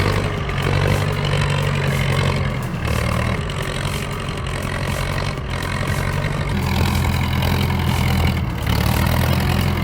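A UTB 650 farm tractor's engine running steadily under load while it drags timber. The note shifts slightly a few times.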